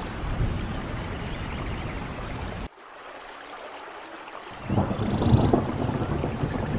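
Steady rain with a low, rolling thunder rumble. About two and a half seconds in, the rumble cuts off abruptly, leaving lighter rain, and it swells back in a couple of seconds later.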